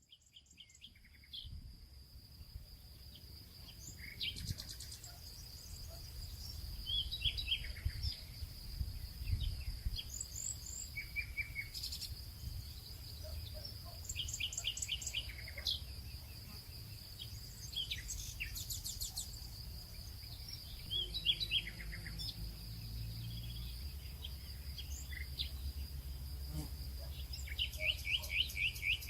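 Nature ambience of birds chirping and trilling in short bursts over a steady high insect drone, with a low rumble underneath. It fades in from silence at the start.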